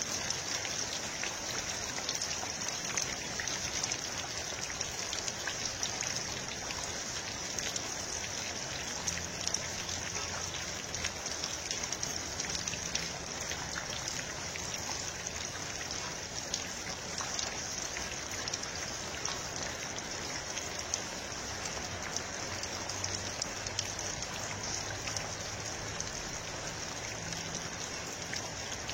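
Steady rain: a dense patter of fine drops over an even hiss.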